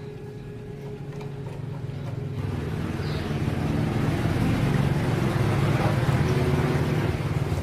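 Small motorcycle engine running, growing louder over the first few seconds and then holding steady.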